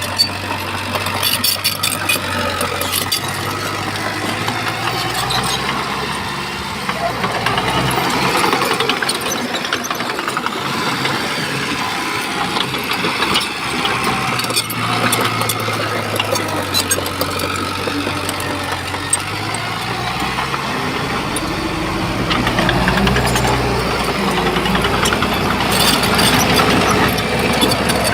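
Shantui bulldozer's diesel engine running while working, its pitch shifting about two-thirds of the way through, with scattered sharp clicks and clatter over it.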